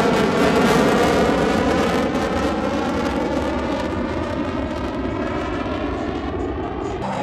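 Jet aircraft flying past, a loud engine roar whose pitch falls slowly as it draws away. It cuts off suddenly near the end.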